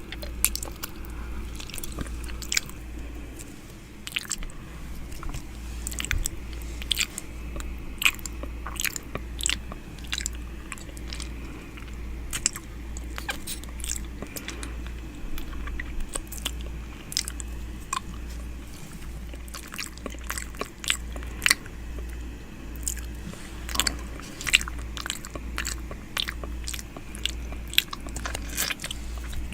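Close-miked wet mouth sounds from 'ear eating' ASMR: irregular lip smacks, tongue clicks and sucking against the microphone, over a low throbbing rumble.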